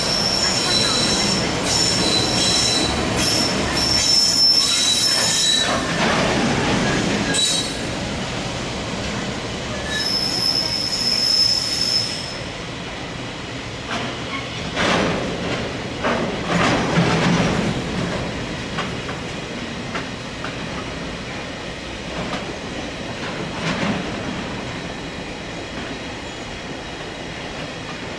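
Freight train of tank wagons, hauled by EF210 and EH200 electric locomotives, rolling past on the rails. A high-pitched wheel squeal lasts about the first twelve seconds and then stops abruptly. After that the wagons rumble and clatter by, with several louder swells.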